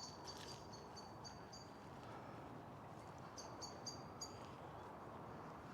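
A bird calling in quick runs of high, repeated chirps, about four a second: one run at the start and a shorter run of four notes about three and a half seconds in, faint over steady outdoor background noise.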